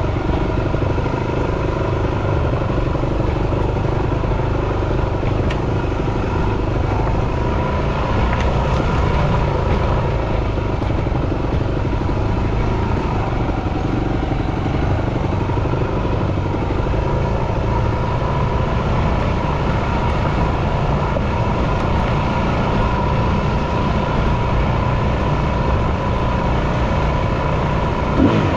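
Yamaha WR250F dirt bike's single-cylinder four-stroke engine running steadily while the bike is ridden.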